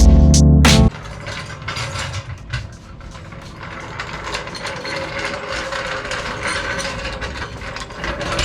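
A hand ratchet wrench clicking in quick runs of strokes as fasteners are worked loose, after about a second of background music that cuts off abruptly.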